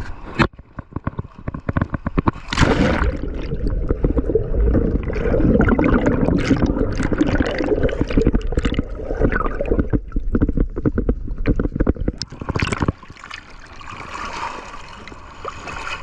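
Water gurgling and sloshing close around the microphone of a diver's camera, with many sharp clicks and knocks. It is loudest from about three seconds in, then drops away suddenly about thirteen seconds in.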